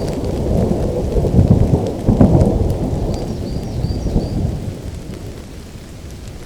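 Thunder rumbling over steady rain. The rumble swells twice, about a second and a half and two seconds in, then fades away during the second half.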